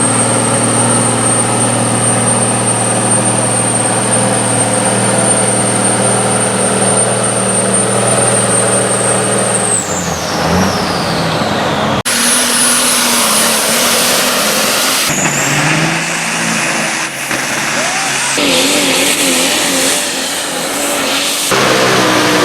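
Pulling truck's engine running hard and steady with a high whine on top; about ten seconds in the whine falls away as the engine comes off. Then a run of short, abruptly cut stretches of truck engines revving, their pitch rising and falling.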